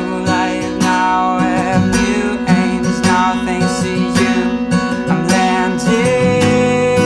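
Acoustic guitar strumming chords in an instrumental passage of a live acoustic song, with sustained notes ringing over the strokes.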